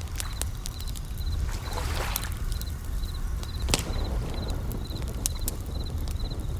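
Bell crickets chirping, short identical trills repeating about twice a second, over a crackling campfire with sharp pops. A wave washes in about two seconds in, over a steady low rumble.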